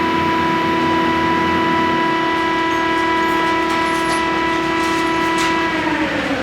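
Hydraulic scrap metal baler's pump and motor running with a steady whine. About six seconds in the pitch slides down as the pump slows.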